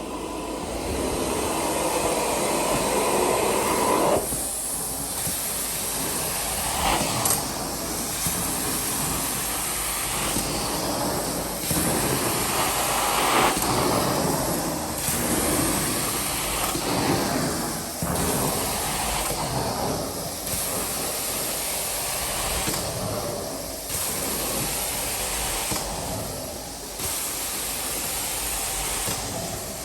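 Carpet extraction machine running, its wand making repeated spray-and-suction passes over the carpet, the noise swelling and dipping with each stroke about every two seconds.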